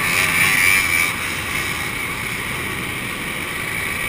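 Two-stroke motorcycle engines running, louder for about the first second and then steady.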